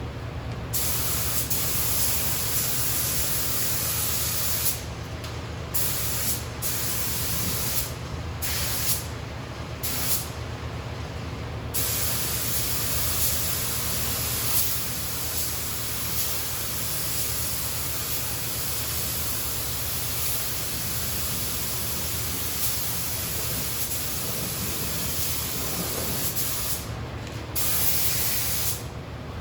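Paint spray gun hissing as first-coat paint is sprayed onto a truck body. The hiss cuts out briefly several times, in the first twelve seconds and again near the end, as the trigger is released between passes, over a steady low hum.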